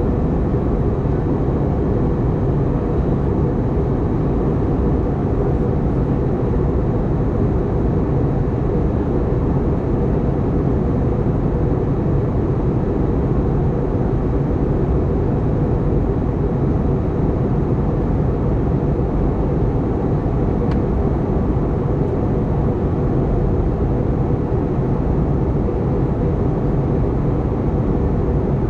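Steady cabin noise of an Airbus A320neo in flight: a constant rumble and rush of airflow and CFM LEAP-1A engines, with a faint steady hum.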